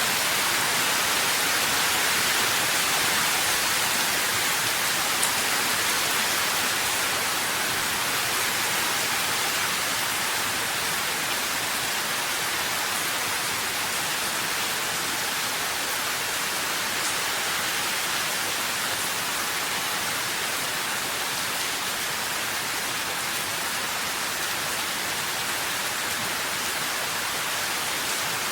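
Steady rain, a dense even hiss without distinct drops or thunder, slightly quieter after the first few seconds.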